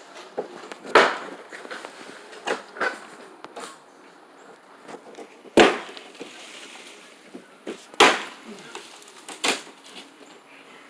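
A series of about seven sharp, irregular knocks and bangs, the loudest near the middle and again about three-quarters through.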